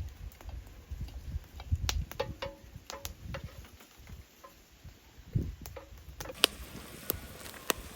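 Kitchen handling sounds: irregular light clicks and knocks of utensils and ingredients being worked, with a sharper click about six and a half seconds in, over a low rumble.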